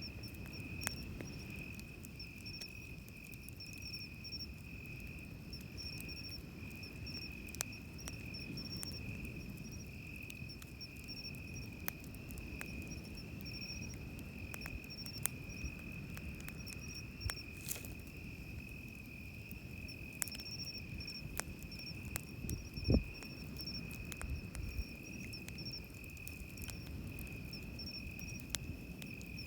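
Insects trilling steadily in a high continuous chirr over a campfire crackling with scattered sharp pops, and a low rumble of surf underneath. One louder low thump comes about three-quarters of the way through.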